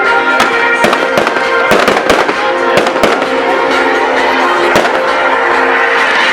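Fireworks going off in a rapid, irregular run of sharp bangs and crackles, several a second, over music with long held notes.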